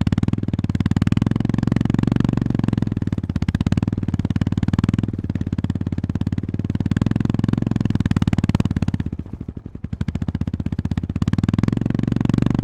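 Honda GB350-family air-cooled single-cylinder engine running under way, its firing pulses steady and fast. About nine seconds in the throttle closes briefly and the sound dips, then the engine pulls again.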